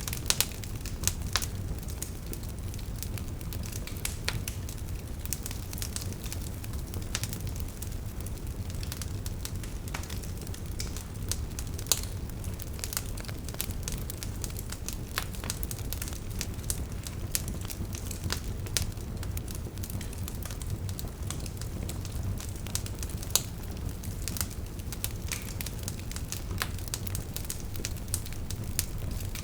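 Wood fire burning: burning logs crackle with a constant stream of irregular small snaps over a low rumble, and a few louder pops stand out, one about a second in, others near the middle and two-thirds through.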